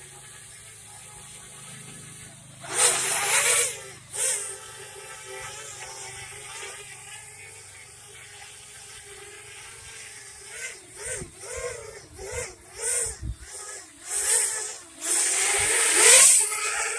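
Parrot Bebop 2 quadcopter's propellers buzzing in flight, the pitch wavering up and down as it manoeuvres. Loud rushing bursts come about three seconds in and again for a couple of seconds near the end.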